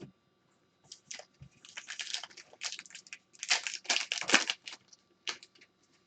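Irregular crinkling and crackling of trading card packs and plastic being handled, as packs are torn open and cards are pulled out and sorted, loudest in the middle.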